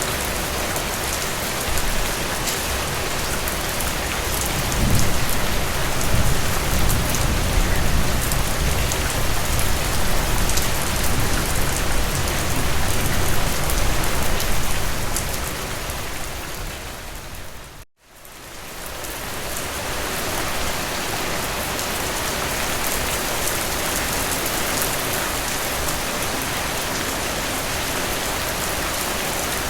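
Steady rain falling, an even hiss of drops, with a low rumble swelling under it for several seconds in the first half. About halfway through, the sound fades out to nothing and quickly fades back in, as at the loop point of an edited track.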